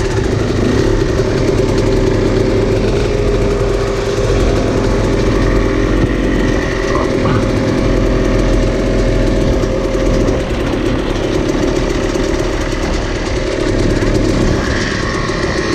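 Dirt-bike engines idling steadily, with a slight rise in loudness near the end as one bike pulls away.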